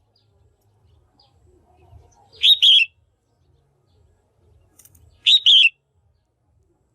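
Female red-whiskered bulbul calling: two short, loud double-note calls about three seconds apart.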